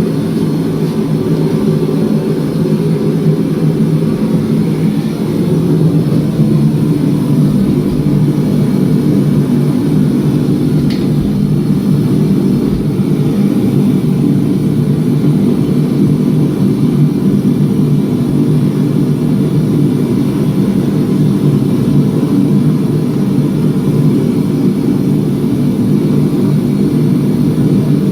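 Steady, even drone of running shop equipment, its sound mostly low, with a faint short tick about eleven seconds in.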